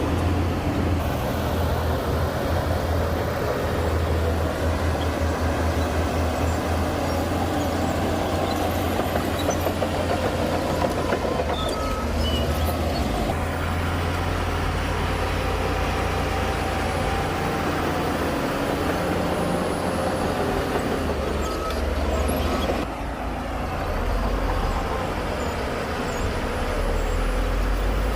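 Heavy diesel earthmoving machinery working, with a steady deep engine rumble that eases briefly about two-thirds of the way through and then picks up again.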